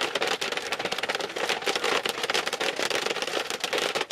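Heavy rain pelting a car's windshield and roof, heard from inside the car as a dense, steady patter of drops.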